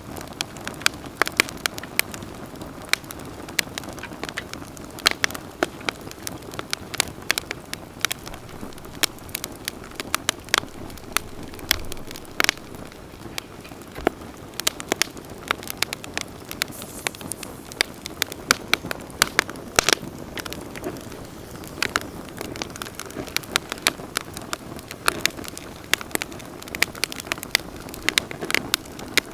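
Wood campfire burning, with frequent irregular sharp crackles and pops over a steady low hiss of the flames.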